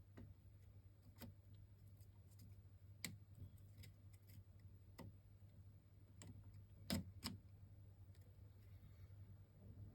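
Faint, scattered clicks and taps of small metal parts and tools being handled while refitting an RC truck's rear suspension springs, about six in all, the loudest a close pair about seven seconds in, over a steady low hum.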